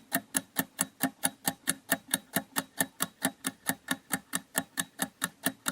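Quiz countdown-timer sound effect: a steady, clock-like ticking, about four ticks a second, counting down the time to answer.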